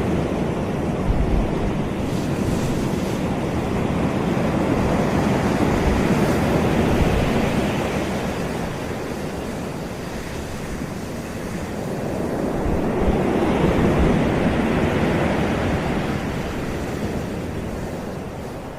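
Ocean surf breaking and washing up on a beach. It swells and eases in slow waves, loudest early and again about two-thirds of the way through, then fades near the end.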